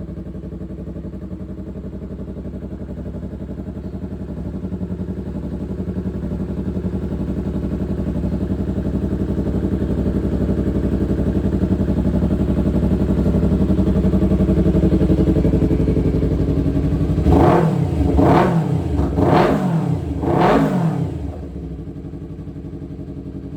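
Yamaha R3's 321 cc parallel-twin engine, fitted with a Vmax aftermarket exhaust, idling steadily. Then it is blipped four times in quick succession, each rev rising and dropping straight back, before it settles to idle again.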